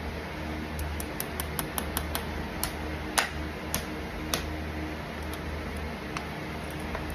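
Sharp metal-on-metal taps: a quick run of light taps, then four louder strikes about half a second apart and a few scattered ones. This fits a farrier's hammer tapping horseshoe nails, heard over a steady low hum.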